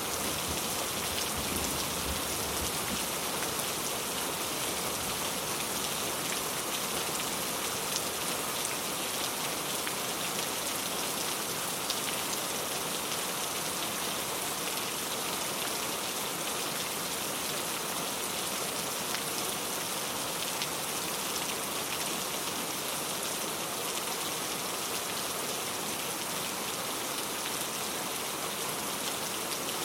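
Steady rain falling, an even hiss with a few louder single drops standing out. A low rumble of thunder dies away in the first second.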